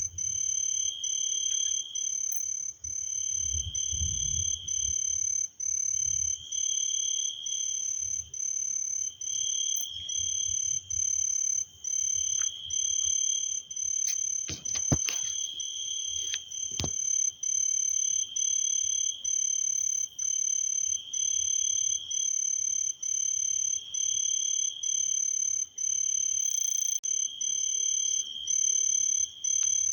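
Night chorus of frogs calling without pause: high-pitched trilling, broken by short regular gaps and swelling every couple of seconds. A few sharp clicks come about halfway through.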